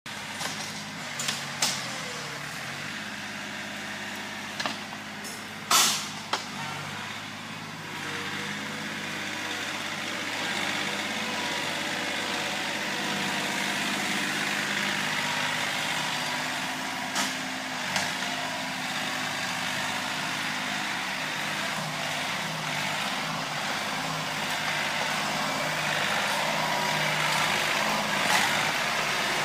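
John Deere 790 compact tractor's three-cylinder diesel engine running steadily, getting louder about eight seconds in, with a few sharp knocks in the first several seconds and two more midway.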